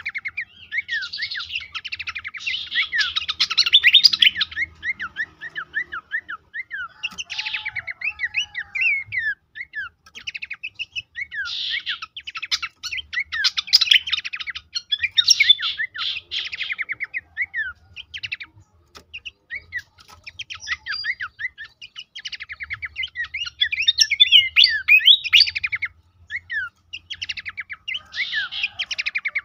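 Pelanduk semak (Horsfield's babbler) song: bursts of rapid chattering trills and quick down-slurred notes, each burst a few seconds long with short pauses between, over a faint low hum.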